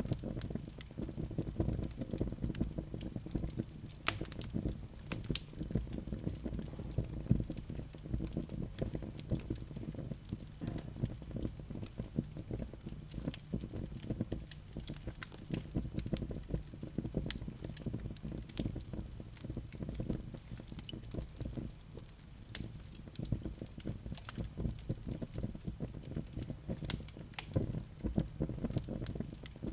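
Wood fire crackling in a fireplace: many small, irregular sharp snaps over a steady low rumble of the flames.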